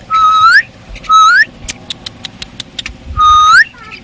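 Three loud whistles, each held on one note and then swooping upward at the end, with a quick run of about eight sharp clicks between the second and third.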